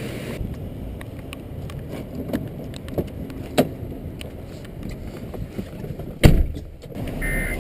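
Storm runoff water rushing and rain falling, a steady low noise, with a few sharp knocks and one loud thump about six seconds in.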